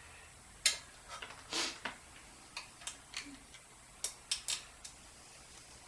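Small metal parts of a generator being handled and set down during disassembly: about ten sharp clicks and clinks at uneven intervals.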